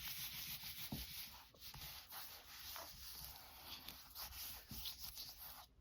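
Faint rubbing and rustling of paper being pressed and smoothed down by hand, with scattered light scratches, stopping just before the end.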